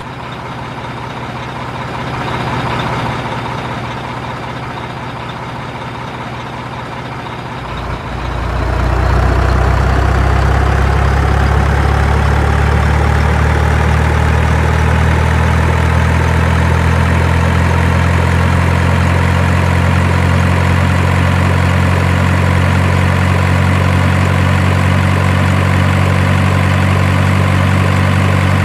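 Heavy truck engine idling, then growing louder and deeper about eight seconds in and settling into a steady, heavy run.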